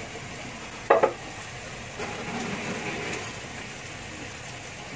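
Fried tuna pieces tipped from a plate into hot oil and fresh-chili balado paste in a pan, sizzling steadily, with one short loud knock about a second in.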